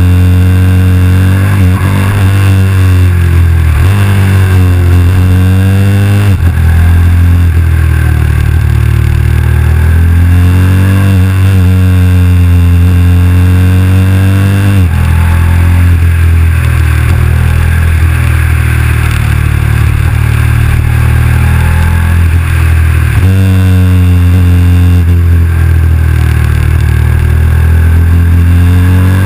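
KTM 990 SMR's LC8 V-twin engine under way, its revs climbing and falling as it pulls out of and rolls into bends, with sudden drops in pitch at gear changes several times, over a steady rush of wind.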